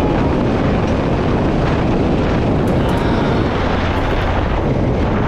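Steady wind rush and low rumble on the microphone of a moving motorcycle.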